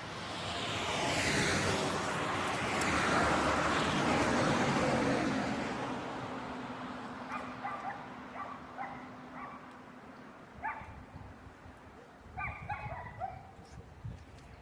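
A vehicle passes, swelling and fading over the first few seconds, then a dog yips and barks in short bursts several times.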